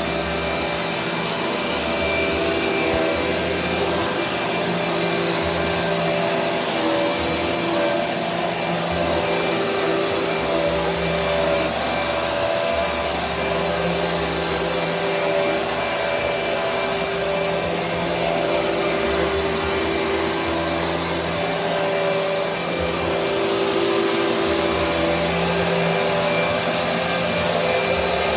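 Vacuum cleaner running steadily while vacuuming a bedroom floor, with a continuous motor hum and airflow noise.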